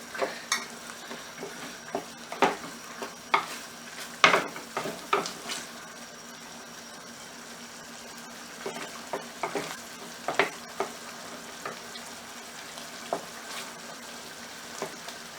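Chicken frying in masala and cashew paste over a high flame, a steady sizzle, while a spatula stirs and scrapes the pan with scattered knocks.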